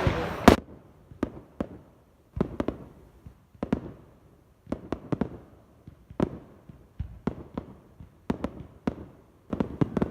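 Fireworks going off: a loud rush of bangs at the start, then an irregular run of sharp cracks with short echoes, some in quick pairs, about one to three a second.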